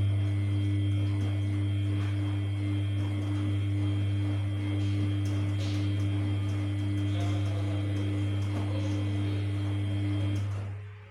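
Samsung P1271 washing machine giving a loud, steady electric hum that switches on abruptly and cuts off near the end, with some faint rattles and water-like noise under it.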